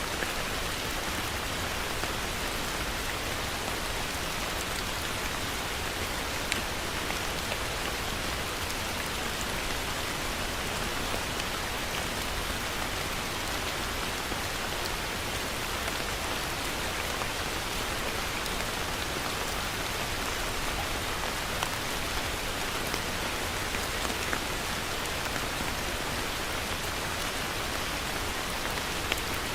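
Heavy rain falling steadily on a surface, a dense even hiss with scattered individual drop ticks.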